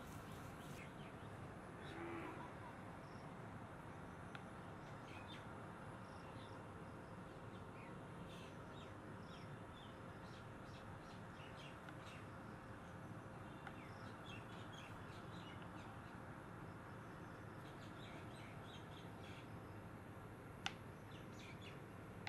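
Faint birds chirping and calling at scattered intervals over a low steady hiss, with one sharp tap near the end.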